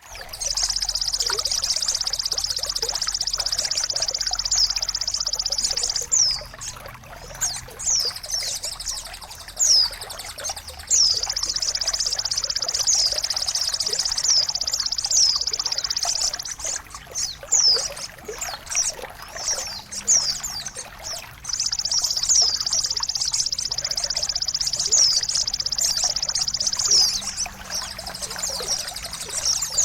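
Recorded birdsong played as tutoring and therapy for caged songbirds that have stopped singing: quick, sharply falling high whistled calls over a high, steady rattling sound that comes in three long stretches.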